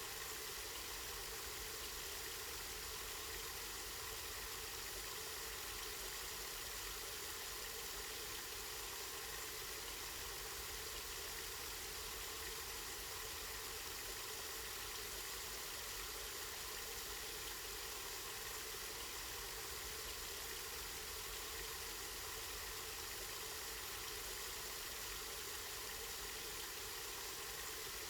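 Spring water flowing steadily, a continuous even rush.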